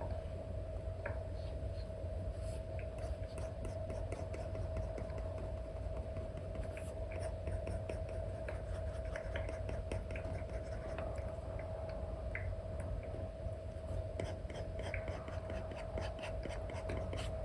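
Apple Pencil 2 with an Elecom nib tapping and stroking on an iPad's paper-like screen film: scattered small ticks and scratches, coming thicker near the end, over a steady hum.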